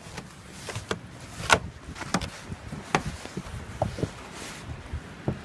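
Footsteps through icy, crusted snow, each step giving a sharp crack or pop, irregularly spaced about one every half second to second.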